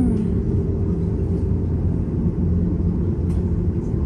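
Steady low rumble of an airliner's engines and airframe heard from inside the passenger cabin around take-off.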